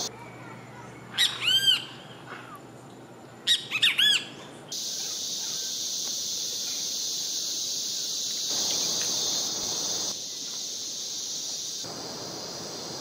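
A bird calling twice, each time a quick run of loud, ringing, arched notes, about two seconds apart. From about five seconds in, a steady high insect buzz of forest crickets or cicadas takes over.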